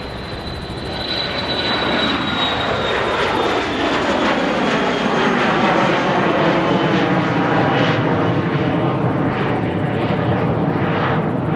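Airplane engines passing close. The noise grows louder over the first couple of seconds and then holds, with a high whine and lower tones that slowly fall in pitch as the aircraft goes by.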